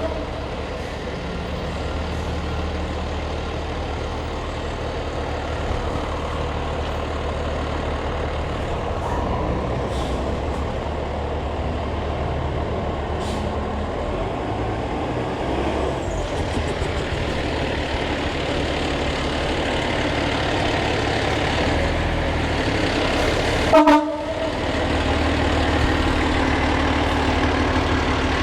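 Fire truck engine running steadily, with one short horn toot near the end.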